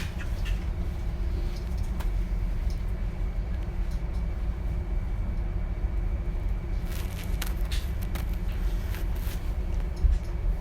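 Interior ride noise of a DB Class 425 electric multiple unit under way: a steady low rumble, with a run of short, sharp high noises from about seven to nine and a half seconds in.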